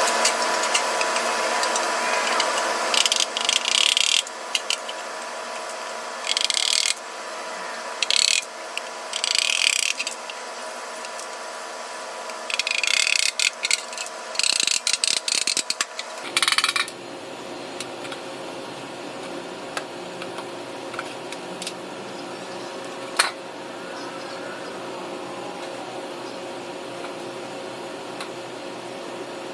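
Workshop tool noise: a steady machine hum with several short, loud bursts of a tool working on material, of a rasping, filing kind. After that the hum goes on alone, with one sharp click.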